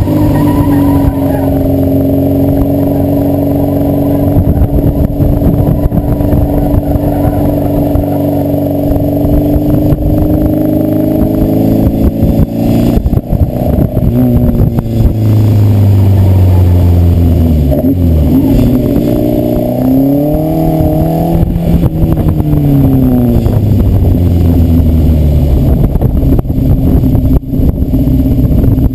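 Engine of an open-cockpit Seven-style sports car under way: held at steady revs for about the first twelve seconds, then the revs drop, climb again and fall away as the car slows, settling into a lower steady note near the end.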